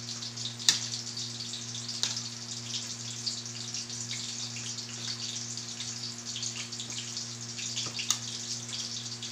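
Chicken fillets frying in hot oil, a steady crackling sizzle, with a metal spoon clinking against a bowl of mashed potatoes a few times, loudest about a second in.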